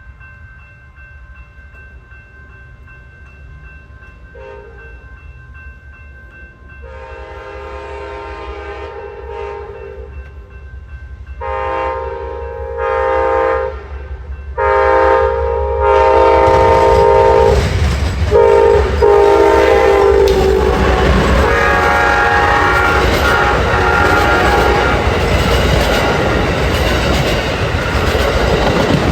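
Locomotive horn sounding a series of long blasts as a train approaches, growing louder, then the train passing close with loud, steady rumble and wheel noise on the rails.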